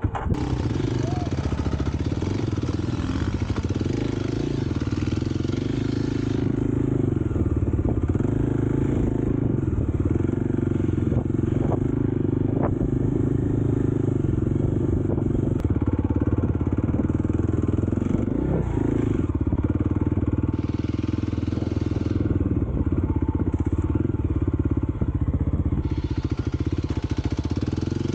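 Kawasaki KLX 300 dirt bike's single-cylinder four-stroke engine running steadily under way, with a few faint clicks.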